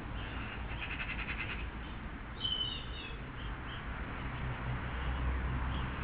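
Small garden birds calling: a quick high trill about a second in, then a louder warbling call at about two and a half seconds, over a steady background hiss.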